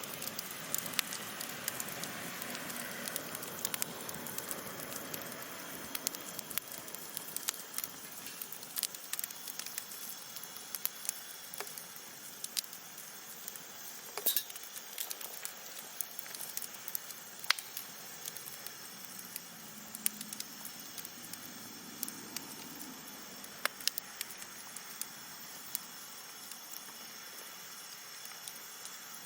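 Wood fire burning, crackling with frequent sharp pops and snaps over a steady hiss, with a few louder pops scattered through.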